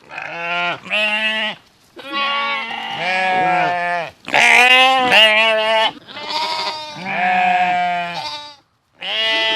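Sheep bleating over and over: about eight or nine loud, quavering baas in quick succession, with short gaps between them.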